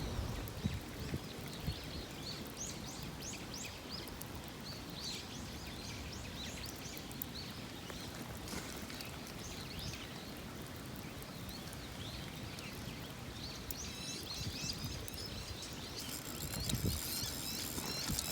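Steady light rain pattering, with small birds chirping in short bursts, now and then.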